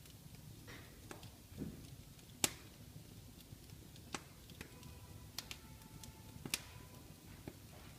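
Wood fire crackling in a fireplace: irregular sharp pops and snaps over a low steady rumble, the loudest pop about two and a half seconds in.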